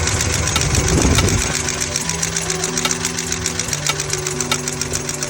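Oldsmobile 307 V8 running with a rapid knock-like ticking from the valvetrain, the noise coming from two rocker arms.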